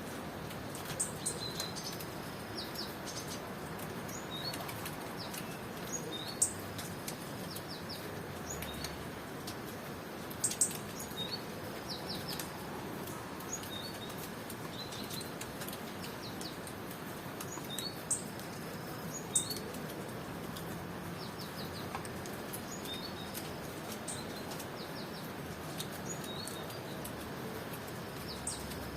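Birds chirping in short, high calls scattered every second or two, a few of them louder, over a steady hiss of rain.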